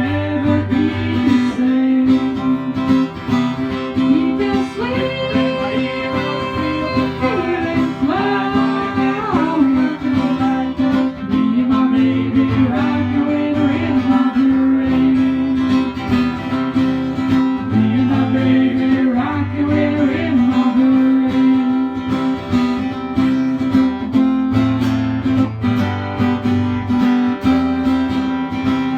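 Country music: an acoustic guitar strumming steadily, with singing.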